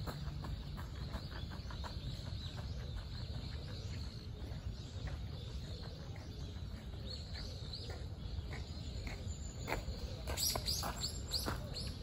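Bird calls: scattered faint chirps, then a quick run of short, high, falling notes about ten seconds in, over a steady low background rumble.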